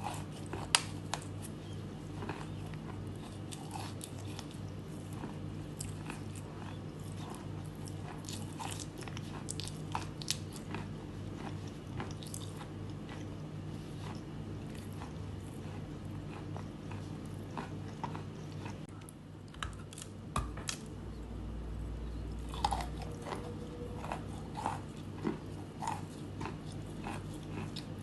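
Close-miked crunching of chalk being bitten and chewed: irregular sharp crunches that come in clusters, over a steady low hum.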